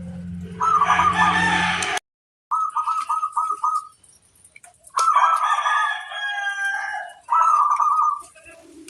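Perkutut (zebra dove) cooing in short runs of repeated hooked notes, with a rooster crowing over them about five seconds in. A hum runs under the first two seconds, then the sound cuts out abruptly for half a second before the cooing resumes.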